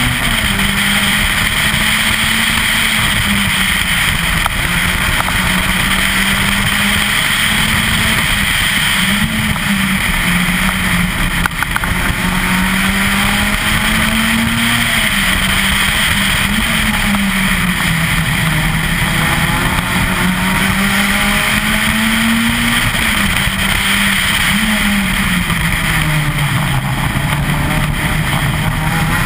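Citroën Saxo VTS 16V rally car's 1.6-litre sixteen-valve four-cylinder engine heard from on board, driven hard. Its revs climb and drop every few seconds through gear changes and corners, over steady road and wind noise.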